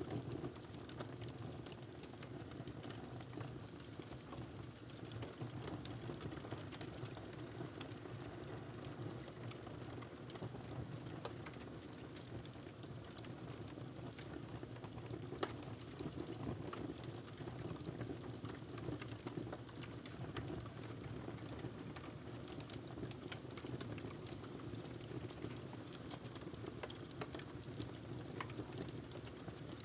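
Wood fire crackling in a fireplace: a steady low rumble with many small irregular pops, and one louder pop about halfway through.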